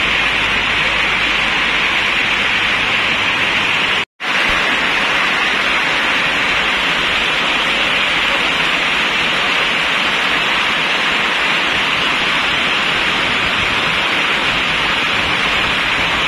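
Heavy rain falling steadily, a loud even hiss. It cuts out completely for a moment about four seconds in.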